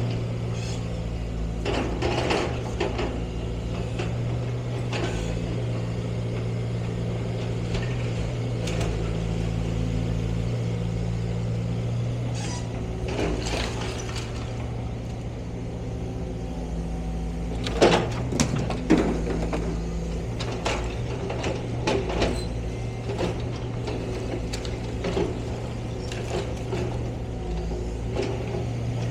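Heavy machinery's engine running steadily, with scattered metallic clanks and knocks, the loudest cluster about two-thirds of the way in.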